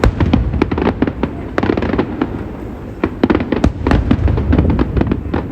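Aerial fireworks going off in a dense barrage: a rapid string of sharp cracks and pops over continuous low booming, with several crackling clusters in quick succession.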